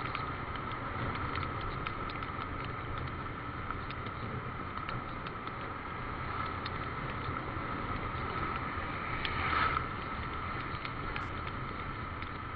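Motorcycle riding in the rain: a steady engine and road drone with a thin steady whine, peppered with small ticks of raindrops hitting the camera or helmet, and a brief swell about nine and a half seconds in.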